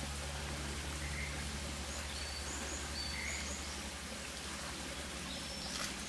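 Woodland ambience: small birds give short, high chirps scattered through it, over a steady hiss and a low hum. A brief click near the end.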